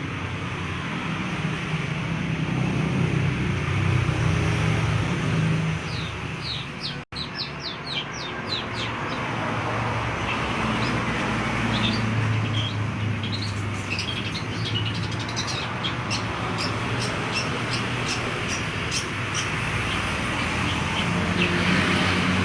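Long-tailed shrike (pentet) singing in fast runs of short, high chirps, a few about six seconds in and a dense run from about eleven seconds. Behind the song is a steady rumbling background noise.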